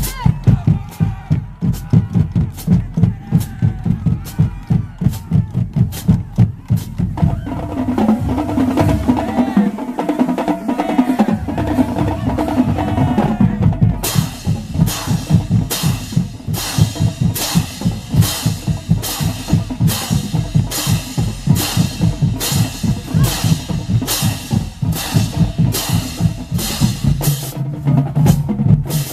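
School band drumline playing a steady beat on bass drums and snare drums. From about halfway, bright crashing hits land on every beat, about two a second.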